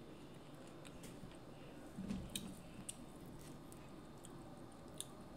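Close-miked chewing of seafood: faint, wet, squishy mouth sounds with scattered sharp clicks. There is a brief louder low bump about two seconds in.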